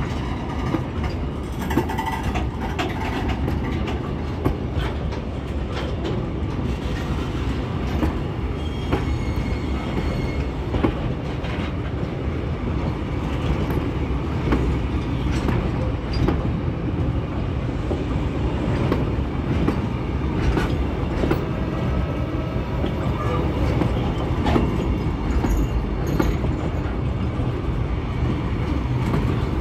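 Container freight train's wagons rolling past close up: a steady rumble of steel wheels on the rail, broken by frequent sharp clicks and clacks as the wheel sets run over the track.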